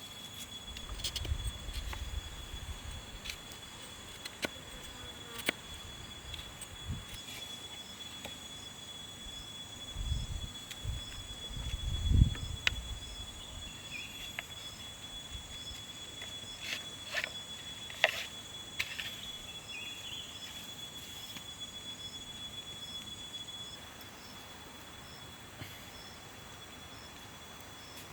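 Outdoor forest ambience with a steady high-pitched insect drone and faint rhythmic insect ticking, broken by a few low thumps and sharp clicks of handling.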